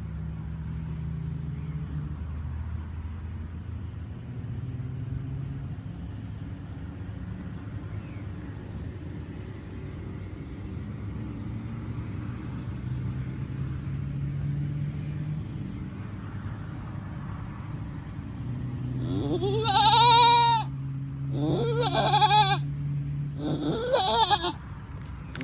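Goat bleating three times near the end, each bleat high-pitched, rising and wavering. Before them there is a low steady hum.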